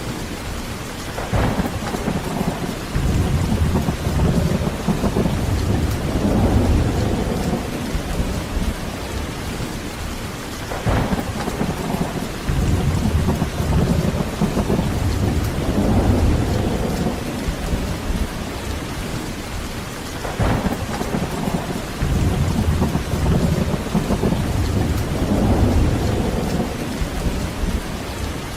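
Heavy, steady rain with three rolls of thunder, one about every ten seconds. Each roll opens with a sharp crack, then rumbles low for several seconds.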